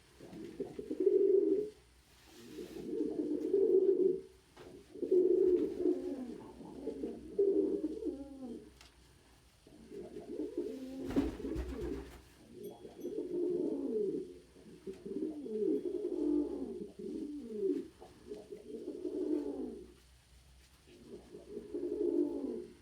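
Domestic pigeons cooing: a run of low, repeated coo phrases of a second or two each with short gaps. A brief low thump sounds about halfway through.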